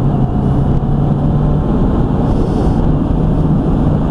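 2018 Honda CB650F inline-four engine running at a steady cruising speed, one steady low drone under heavy wind rush on the microphone.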